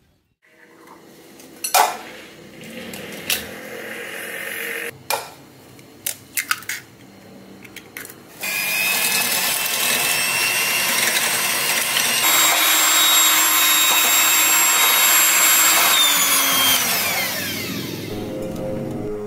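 A few clicks and knocks, then an electric blender starts about eight seconds in and runs steadily with a whine. Near the end the motor winds down, its pitch falling as it slows.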